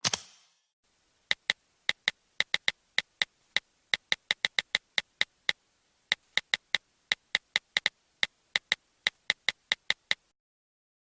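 A run of short, sharp clicks at an uneven pace, about four a second, starting about a second in and stopping near the end.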